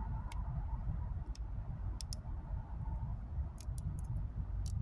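Dental floss clicking and snapping between back molars as it is worked along a tooth, a few sharp irregular clicks over a steady low background rumble.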